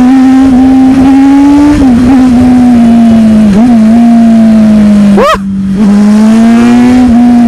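Sport motorcycle engine at high revs through an unmuffled exhaust, holding a strong, slowly rising note under way. About five seconds in the note cuts out briefly for a gear change, then comes back and climbs again.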